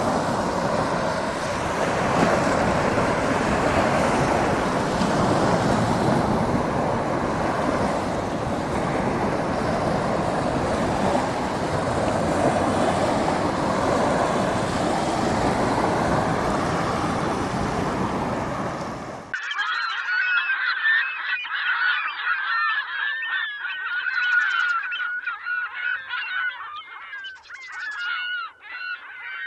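Ocean surf and wind as a steady rushing, cut off abruptly about two-thirds of the way through by a flock of gulls giving many overlapping cries.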